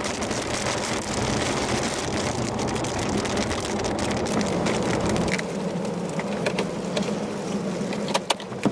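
Rain beating on a moving car, with road and engine rumble that drops away about five seconds in; after that come scattered sharp ticks of drops striking the car.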